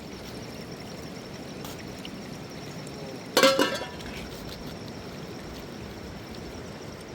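A single sharp clink with a brief ringing, about halfway through, over a steady background hiss.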